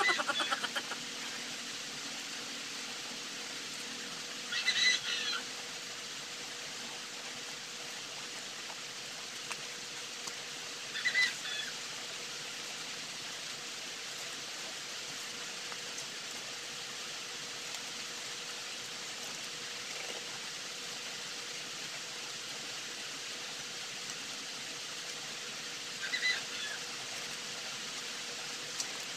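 Outdoor rural ambience: a steady hiss with a faint hum underneath, and a bird calling briefly three times, spread through the stretch.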